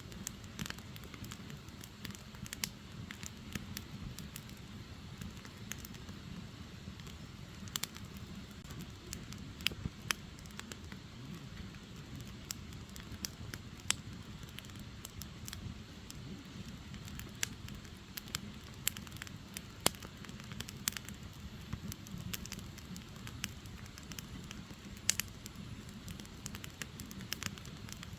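Firewood logs burning in an open fire: irregular sharp crackles and pops over a steady low rumble of the flames.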